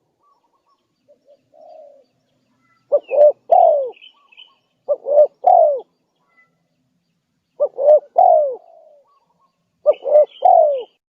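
Spotted dove (Streptopelia chinensis) singing its cooing song: four three-note phrases, two short coos and a longer falling one, repeated about every two and a half seconds. Faint high chirps from another small bird come in between.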